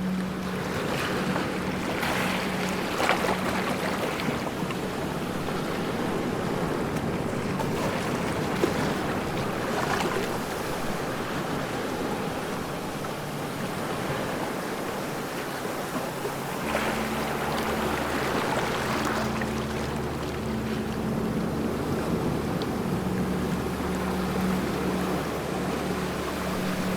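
Ocean waves breaking and washing in, the surf swelling louder every several seconds. A steady low hum runs under it, fading in the middle and returning stronger about two-thirds of the way in.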